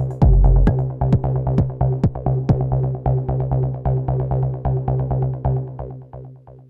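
Techno played on an Elektron Analog Rytm drum machine: a fast run of percussive hits over a steady low bass tone, with a heavy low thump in the first second. The pattern fades out toward the end as the set closes.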